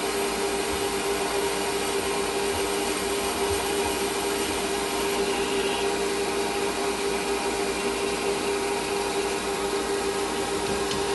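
Metal lathe running steadily, its motor giving an even hum with a constant tone and a hiss of cutting noise over it.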